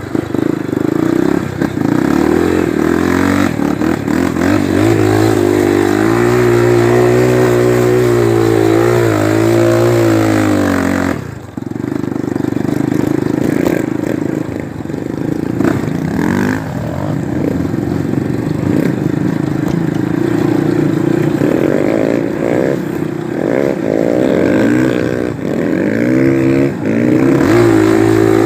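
Dirt bike engine under way on a trail, revs rising and falling as the rider works the throttle, with a brief drop in engine noise about eleven seconds in.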